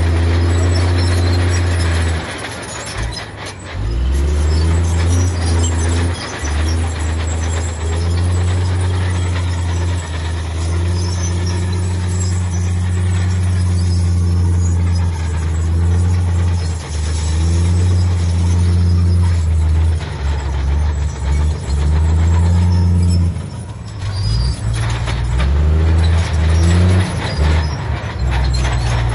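Heavy diesel engine of earthmoving machinery running under changing load, its pitch and loudness rising and falling, with brief drops a few seconds in and again near the end. Scattered knocks come near the end.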